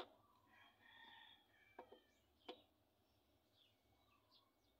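Near silence with faint distant bird calls, broken by two light, sharp knocks about two seconds in.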